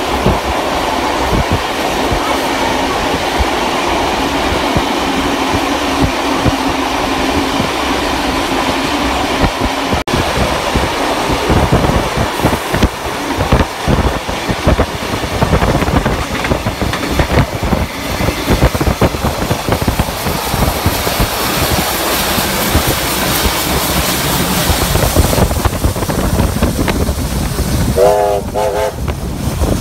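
Trains running on adjacent tracks: a steady rumble and clatter of steel wheels over the rail joints as a passenger carriage, a water tank wagon and steam locomotive 3016 roll past close by. A short wavering whistle sounds near the end.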